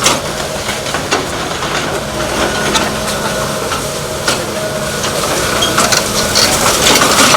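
Wooden house being demolished: timber cracking, splintering and crushing in scattered sharp bursts over the steady drone of a machine's engine.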